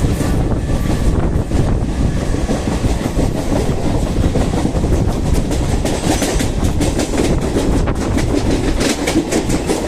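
Mumbai local electric train running, a steady rumble with the clickety-clack of wheels passing over rail joints.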